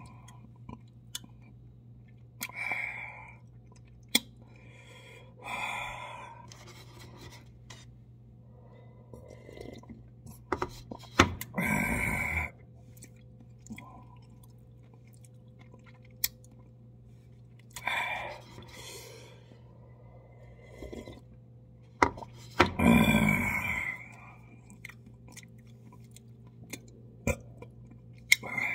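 A man chewing instant cup-ramen noodles noisily, in separate bursts of mouth sounds a few seconds apart; the loudest come about a third and about four-fifths of the way through.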